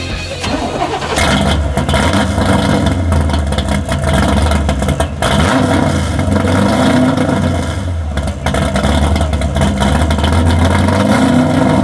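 Supercharged 502 cubic-inch big-block V8 in a 1970 Corvette C3, heard from its exhaust, running with a low rumble and revved a few times so that its note rises and falls.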